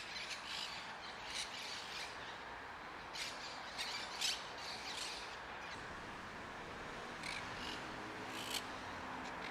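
Birds calling in short, sharp squawks every second or so over a steady outdoor hiss. Faint, steady low musical tones start to come in near the end.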